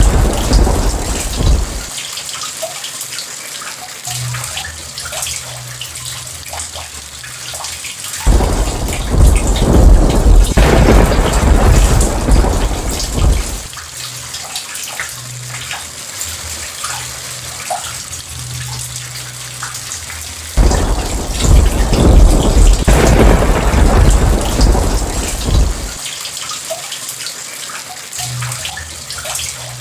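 Steady heavy rain with scattered drop ticks, broken by rolling thunder. One roll dies away in the first couple of seconds, then two long rumbles break in suddenly, about a third of the way in and again about two-thirds in, each lasting around five seconds.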